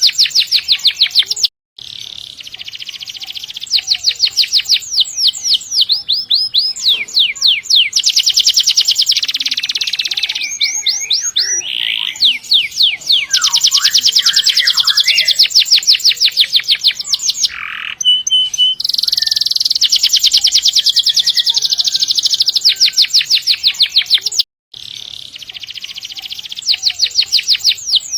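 Domestic canary singing long rolling trills: very fast runs of repeated notes, each run lasting several seconds, with short breaks between them. The song cuts out completely twice, briefly.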